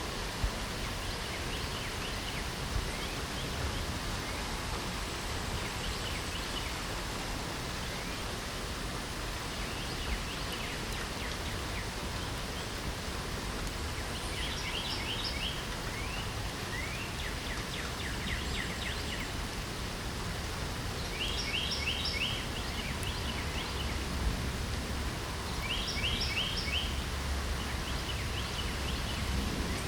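Steady hiss of light rain falling, with songbirds singing over it: scattered short chirps, then a repeated rapid trilled phrase every three to four seconds in the second half. A few brief ticks stand out near the start.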